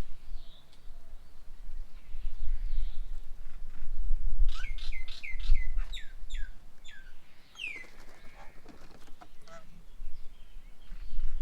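Birds at a garden bird table calling: a run of about eight quick chirps, each falling in pitch, between about four and eight seconds in, over a steady low rumble.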